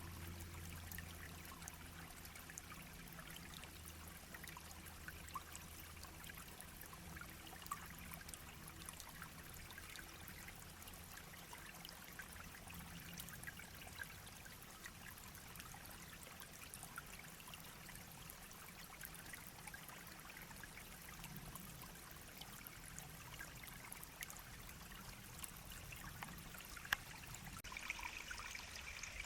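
Shallow brook babbling and trickling steadily, with many small drips and splashes.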